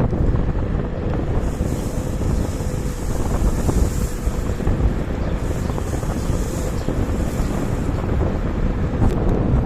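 Wind buffeting the microphone during a ride on a KuKirin G2 electric scooter, over a steady low rumble from the road, with a faint steady whine underneath. A higher hiss comes and goes in the middle.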